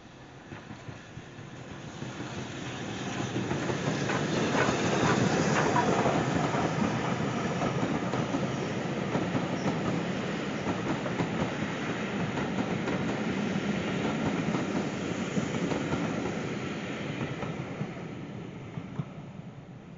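Steam-hauled heritage passenger train passing close by, the locomotive then a rake of coaches, wheels clattering over the rail joints. It swells to loudest about five seconds in and fades away near the end.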